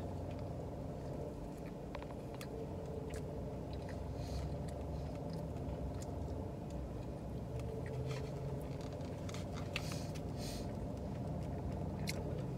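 Close-up mouth sounds of chewing falafel and pita, with scattered short wet clicks and smacks, over a steady low hum inside a car.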